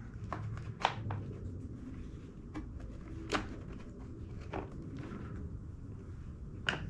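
A handful of light clicks and taps, about seven spread irregularly, from hands fitting the plastic parts of an Echo PB-265L backpack blower, over a low steady hum.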